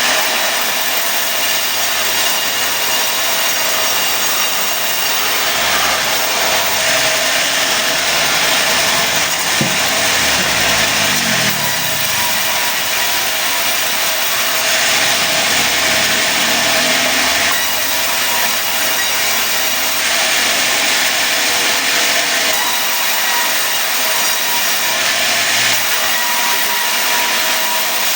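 Sawmill saw cutting mahogany into boards: a loud, steady machine noise with a bright hiss of the cut, and a lower hum that wavers in pitch midway through.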